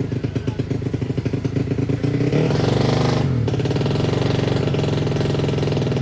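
Motocross bike engine running with a fast, rough beat; about two seconds in the throttle is blipped, the revs climb for about a second, cut off sharply and drop back to a steady run.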